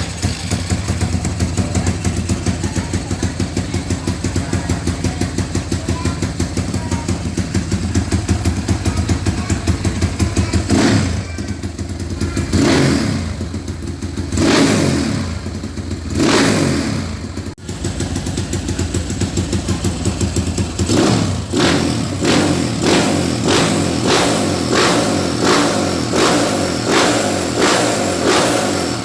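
Single-cylinder four-stroke engine of a 270 cc Honda CRF motocross bike running after a start, steady for about ten seconds. It is then revved up and down four times, dips briefly, and ends with a run of short throttle blips about once a second.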